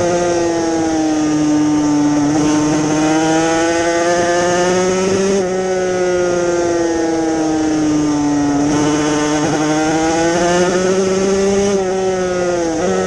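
Yamaha TZ250 two-stroke racing motorcycle engine running hard under way, its note sagging and swelling with the revs. It breaks off sharply about five seconds in and again near the end, then picks up again.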